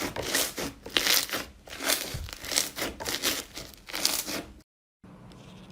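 Slime being squeezed and pressed by hand, giving repeated crinkly, crackling squelches about two or three times a second. The sound cuts off abruptly near the end, leaving a faint steady hum.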